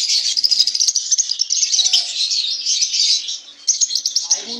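Many small parrots chirping and chattering together in a dense, rapid, high-pitched twitter, with a short lull near the end.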